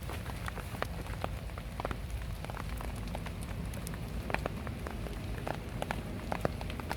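Light drizzle: scattered raindrops ticking irregularly on surfaces, over a low steady rumble.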